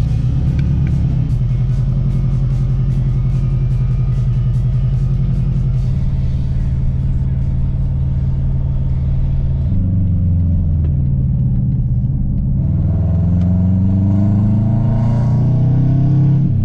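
A car's engine and exhaust under way, humming steadily for about ten seconds. It then changes pitch and climbs as the car accelerates in the last few seconds.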